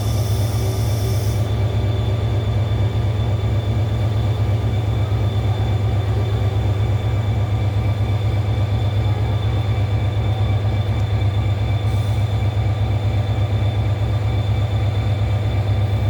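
Seoul Subway Line 1 electric train running at the station platform: a steady, loud low rumble with a fast even pulse, and faint steady high-pitched tones over it.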